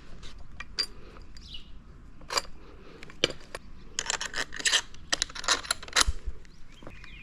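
Small metal tools and parts clinking and clattering against each other in a string of sharp clicks, busiest about four to six seconds in.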